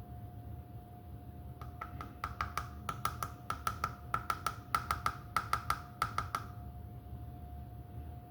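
A rapid, irregular series of light hard taps, about four or five a second, each with a short ringing tone, starting about a second and a half in and stopping after about five seconds, over a faint steady hum.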